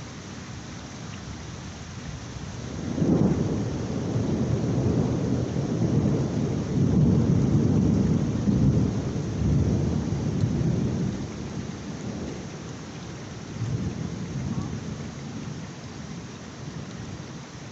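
Thunder rolling over steady heavy rain: a deep rumble breaks in suddenly about three seconds in, rolls on in swells for about eight seconds, then dies away, with a smaller rumble a few seconds later.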